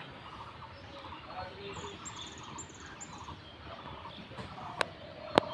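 Small birds chirping, with a quick high twitter about two seconds in, and two sharp clicks near the end.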